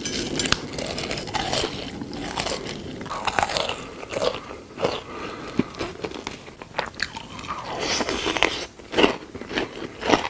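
Close-miked eating: crunchy bites and chewing, with irregular sharp crackles.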